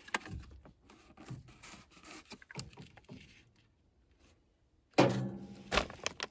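Furnace parts and tools being handled by hand: scattered light clicks and knocks, then a louder clunk about five seconds in and a sharp knock just after it.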